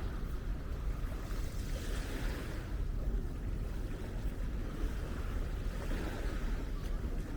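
Small waves washing onto a sandy beach, swelling twice, with wind buffeting the microphone as a steady low rumble.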